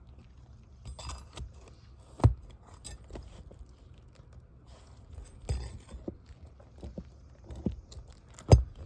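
Scattered knocks and scrapes from hand work on an asphalt shingle roof. The sharpest knocks come about two seconds in and again near the end.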